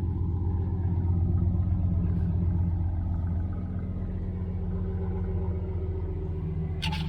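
An engine running steadily with a low, even hum, with a few sharp clicks near the end.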